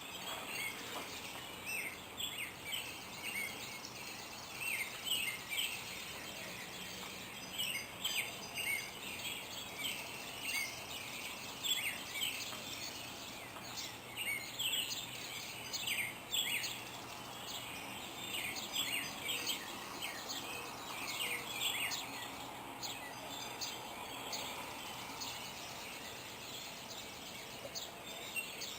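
Wild birds chirping and singing in the morning: many short, quick chirps from several birds, with a few buzzy trills among them, over a steady outdoor background hiss.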